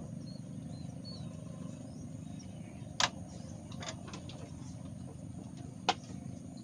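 Steady low motor hum, with two sharp clicks about three seconds apart.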